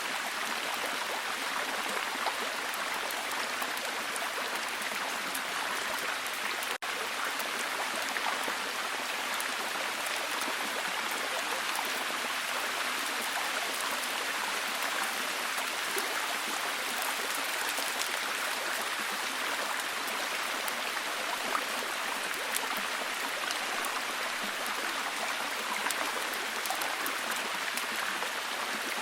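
Steady solid rain: an even hiss with scattered ticks of individual drops. It cuts out for an instant about seven seconds in.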